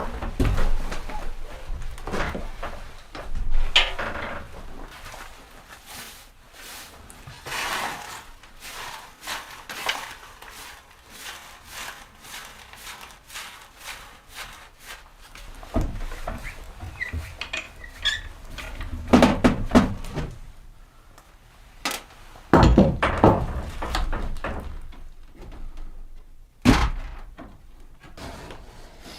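Irregular wooden thunks, knocks and creaks of things being handled and moved about in a small wooden room, with a few heavier thumps a little past the middle of the stretch.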